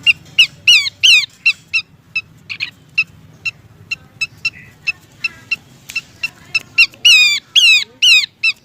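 Horsfield's babbler (pelanduk semak) calling: a rapid run of short, sharp high notes, several a second, broken by loud downward-sliding calls at the start and again near the end. It is a lure recording of a female calling for a male.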